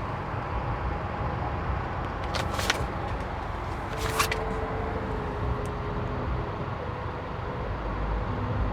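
Steady low rumble of vehicle noise, with two brief sharp rustling clicks about two and a half and four seconds in.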